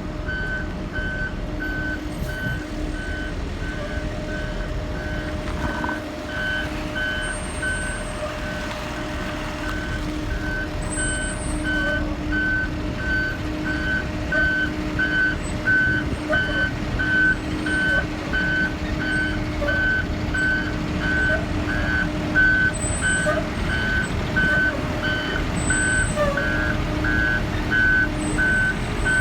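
Backup alarm of a 2019 Blue Bird All American school bus beeping steadily as the bus reverses, about three beeps every two seconds. The bus's engine runs underneath with a steady hum, a little louder in the second half.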